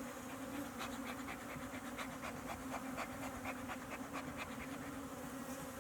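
Honeybees buzzing around an opened hive, a steady hum at one pitch with faint irregular ticks scattered through it.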